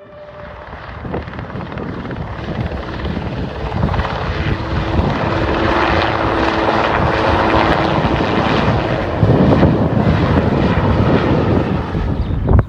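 Helicopter in flight, its rotor and turbine noise growing louder over the first few seconds, then staying loud.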